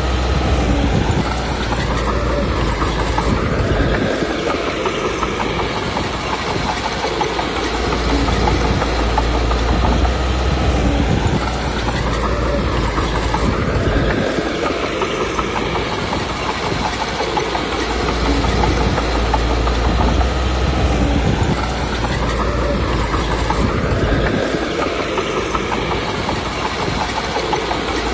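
Komatsu D21P crawler bulldozer working: the diesel engine runs under load along with a steady clanking of the tracks. The engine's low rumble swells and eases in a repeating cycle about every ten seconds, with its pitch rising and falling each time.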